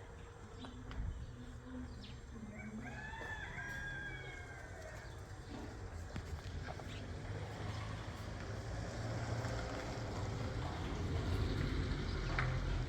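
A rooster crowing once, about three seconds in, over a low rumble that grows louder toward the end.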